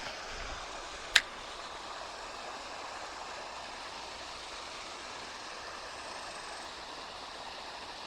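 Steady rush of creek water running over rocks, with one sharp click about a second in.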